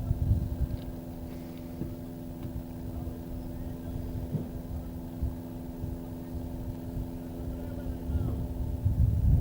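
Steady low hum with an uneven low rumble beneath it, the rumble swelling near the end.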